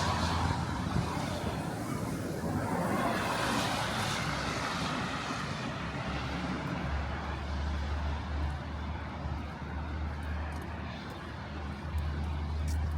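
Strong winter wind gusting through a city street, with a low rumble of wind on the microphone and two louder swells in the first five seconds.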